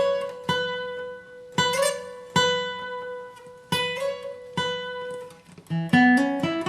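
Acoustic guitar played slowly, one picked note at a time, each note ringing out and fading before the next, about a second apart. Near the end a quicker run of notes climbs in pitch: a bluegrass lead riff played at slow practice speed.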